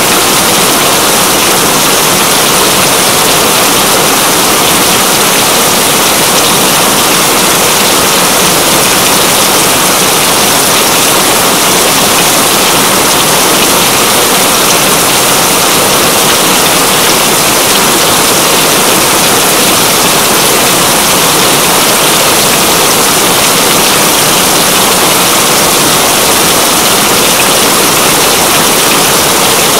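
Steady heavy rain: a loud, dense, even hiss that never lets up.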